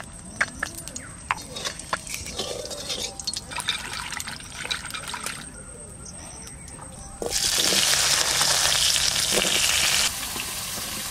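Potato batons handled in a bowl of water, with small splashes and clicks. About seven seconds in they go into hot mustard oil in a kadai and a loud frying sizzle starts suddenly, easing a little near the end.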